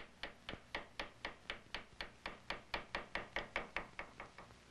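Engraving chisel being driven into a gunlock's metal by quick, light hammer taps, about five a second, in an even rhythm that stops near the end.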